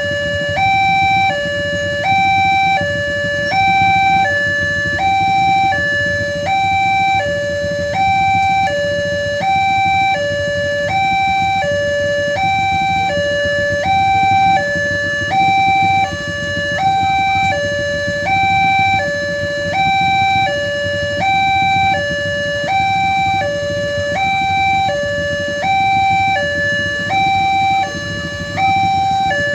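Railway level-crossing warning alarm sounding a two-tone electronic signal, switching between a lower and a higher tone about twice a second, to warn that a train is coming. A steady low rumble runs underneath.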